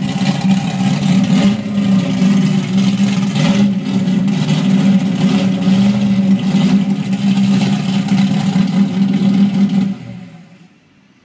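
Stroker 440 big-block V8 in a 1971 Dodge Challenger R/T, running loud and steady at a fairly even pitch. The sound drops away sharply about ten seconds in.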